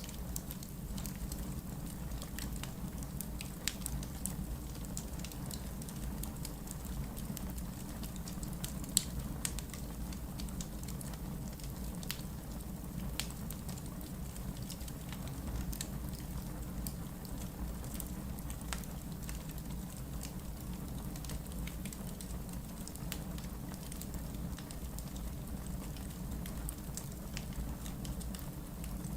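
Wood fire burning in a fireplace: a steady low rumble of the flames, with scattered pops and snaps from the logs. The sharpest snap is about nine seconds in.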